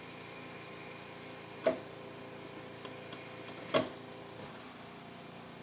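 Two sharp clicks about two seconds apart, with a couple of faint ticks between them, over a steady low hum, as the electric pressure cooker is handled just after its pressure has been released.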